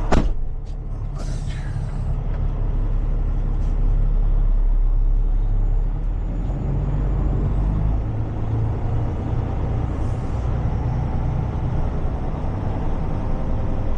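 Heavy truck's diesel engine running at low speed, with a sharp knock at the start and a short hiss of air a second or so in and again near ten seconds; the engine note shifts about eight seconds in.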